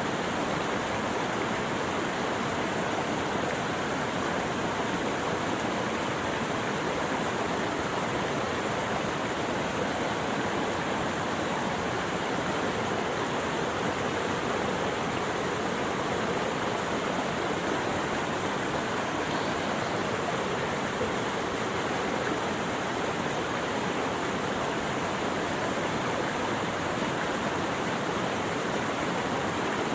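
Rushing water running steadily, an even hiss and rush with no breaks or changes.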